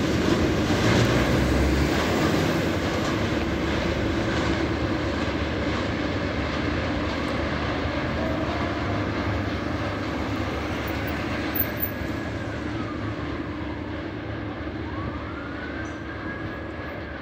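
Tanker freight train's wagons rolling away along the track, the rail rumble and clatter fading slowly as the last tank car recedes.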